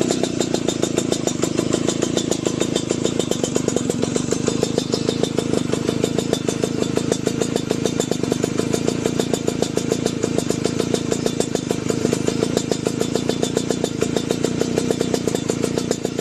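Old two-stroke Vespa scooter engine running steadily at idle through an aftermarket sheet-metal racing exhaust, giving a fast, even popping beat with no revving.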